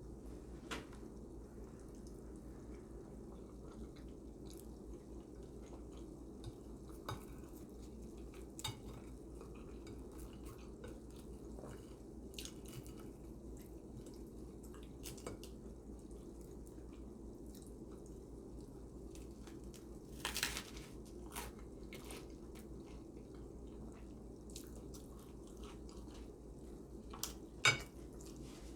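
Cutlery tapping and scraping on a plate, with soft chewing, over a steady low hum; a short louder clatter about two-thirds through and a sharp clink near the end.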